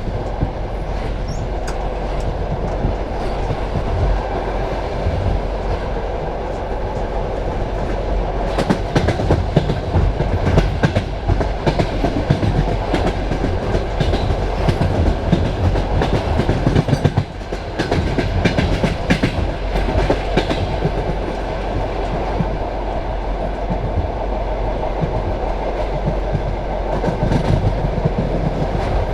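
Passenger train carriage running along the track, a steady rumble with the clickety-clack of wheels over rail joints, heard at the carriage window. Bursts of sharper clacking come about a third of the way in and again about two thirds in.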